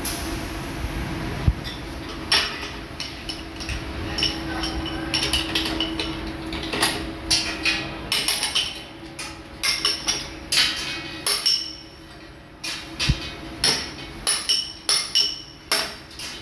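Irregular metal clinks and knocks, some ringing briefly, as metal parts are struck or handled in a workshop. A steady machine hum runs underneath and fades out about halfway through.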